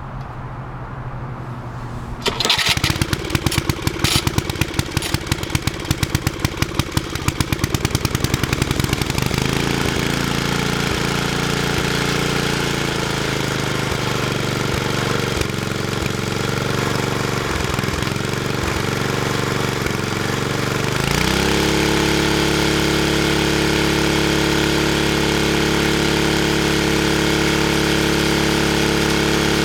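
Tecumseh HH60 single-cylinder engine starting on medium choke about two seconds in, firing unevenly at first. It settles into running with a wavering pitch, and about two-thirds of the way through its note changes and then holds steady.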